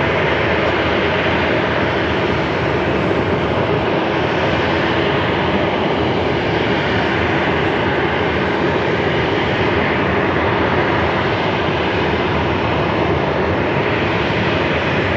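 Jet noise from an Airbus A321neo's CFM LEAP-1A turbofan engines as the airliner comes in to land: a loud, steady rushing sound.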